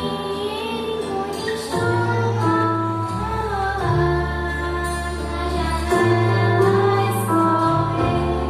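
A song with a female voice singing a melody over instrumental accompaniment with steady bass notes.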